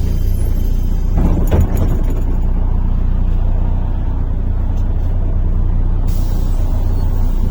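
MAZ-103.485 city bus under way, heard from inside the passenger cabin: a steady low engine and road rumble, with a few short knocks or rattles about a second and a half in.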